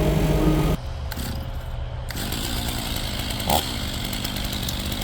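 Two-stroke chainsaw running at high revs while bucking bur oak, then dropping suddenly to a much quieter low idle about a second in.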